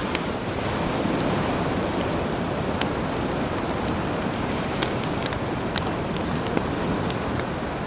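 Campfire crackling, with sharp irregular pops, over the steady wash of sea waves.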